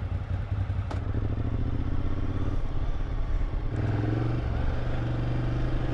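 Motorcycle engine idling, with a short click about a second in, then rising in pitch as the bike pulls away from a stop in first gear. The pull-away goes smoothly despite a hydraulic clutch with a lot of lever play that had been making shifting difficult.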